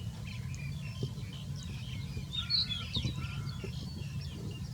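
Small birds chirping: many short high chirps and tweets, busiest about halfway through, over a steady low rumble.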